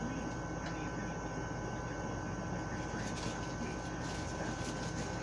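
Steady room hum of a running air conditioner with a thin, constant high whine, and a few faint ticks in the second half.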